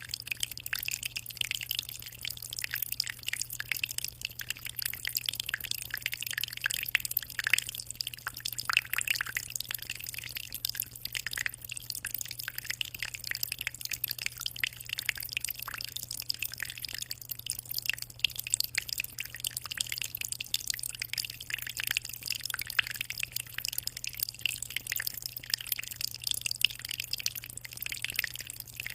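Aquarium water trickling and splashing in a continuous fast patter of small drips at the surface, over a low steady hum.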